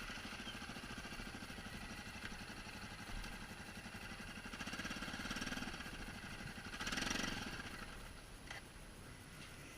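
ATV engine running at idle with a steady pulsing beat, rising briefly in revs about five seconds in and again, more strongly, about seven seconds in, then settling lower.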